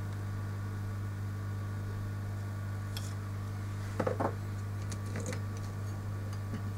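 Steady electrical hum with a few light clicks and taps; the loudest are a quick pair about four seconds in.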